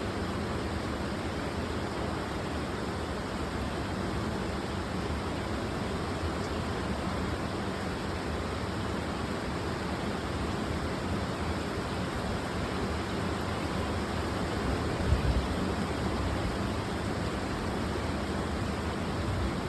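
Steady rushing noise of storm wind, with a brief louder low rumble about fifteen seconds in.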